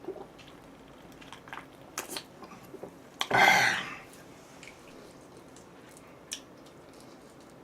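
A person chewing and biting food close to the microphone, with small wet mouth clicks and one louder, noisy mouth sound about three and a half seconds in.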